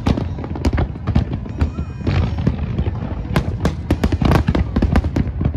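Fireworks going off in rapid, irregular succession: many sharp bangs and crackles over a continuous low rumble, with faint music underneath.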